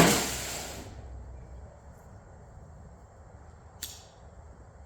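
A single sharp bang that fades away over about a second, followed a little under four seconds later by a much fainter click.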